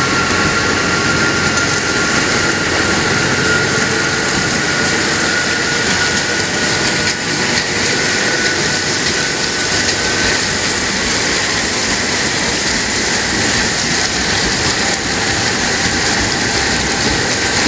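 Passenger train running through floodwater: a steady rushing splash of water thrown up along the carriage side, with a thin high whine that fades out about ten seconds in.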